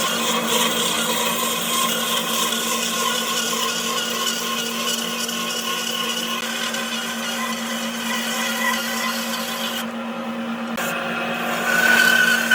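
An electric power tool's motor running steadily with a constant hum. Near the end it gets louder and a higher whine comes in.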